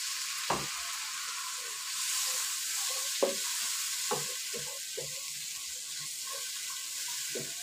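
Onion-tomato masala sizzling in hot oil in a wok, a little water just added, while a wooden spatula stirs it and knocks against the pan several times.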